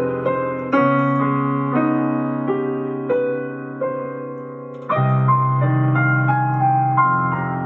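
Solo piano playing the closing instrumental passage of a song: sustained chords with a melody of single notes above them, a fresh low chord struck about a second in and another about five seconds in.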